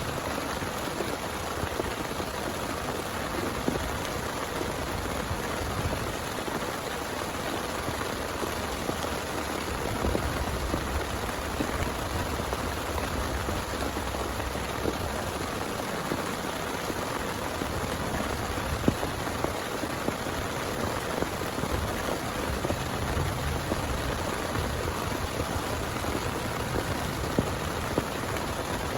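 Heavy rain falling steadily, with a few sharper drop hits now and then.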